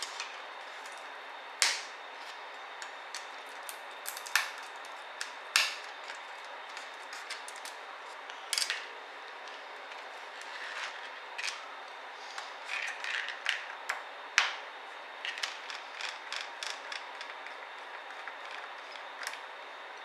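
Irregular sharp clicks and taps of plastic and metal laptop parts being handled during disassembly, over a steady hiss. A few louder knocks stand out.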